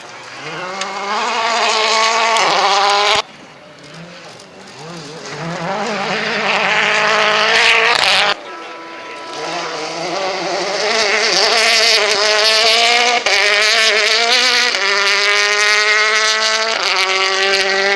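Rally cars at full throttle, engines revving up through the gears with short drops in pitch at each upshift. There are three separate runs, broken by abrupt cuts about three seconds in and about eight seconds in. The last and longest run climbs through several gears.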